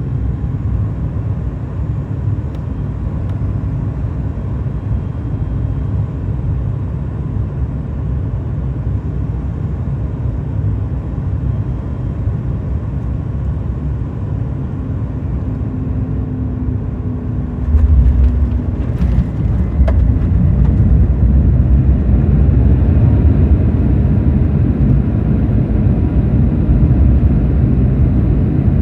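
Cabin noise of a Boeing 737 MAX 8: a steady low rumble on approach. About two-thirds of the way through there is a sudden jolt with a few clicks, and the rumble jumps louder and stays up, as the airliner touches down and rolls out on the runway.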